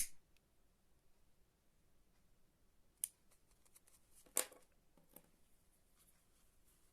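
A few sharp, isolated clicks from small hand tools at work on the ribbon: a loud click at the very start, a short one about three seconds in, and a stronger, slightly longer one about four and a half seconds in, with near silence between.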